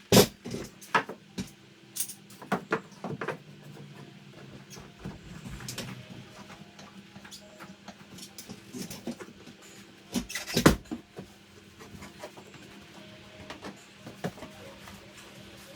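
Irregular knocks, taps and clatters of wooden boards and tools being handled during carpentry work, with two louder knocks, one at the start and one about ten and a half seconds in.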